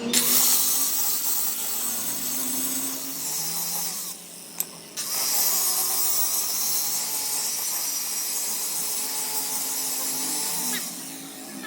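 Electric power tool running in two spells with a gap of about a second between them, a steady high hiss that stops near the end.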